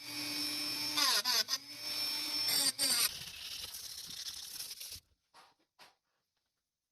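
A power tool running with a steady high whine, its pitch sliding up and down in louder stretches as it is worked. It winds down and stops about five seconds in, followed by two faint short knocks.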